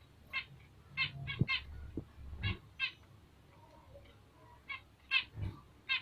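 Bengalese finches giving short, harsh calls, about ten of them in irregular succession, with a few soft low thumps among them.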